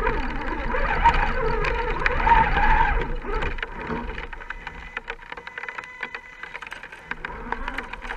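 Electric motor and gearbox of an RC scale crawler whining, the pitch rising and falling with the throttle for about three seconds, then dropping away. Many scattered sharp clicks follow.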